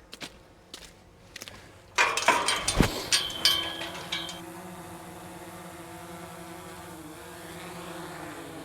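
An engine starts with a loud clatter and a heavy thump, then runs at a steady idle, its pitch dipping near the end.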